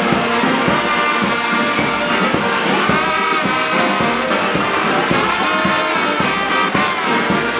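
Band music with brass instruments, such as trumpets and trombones, playing steadily.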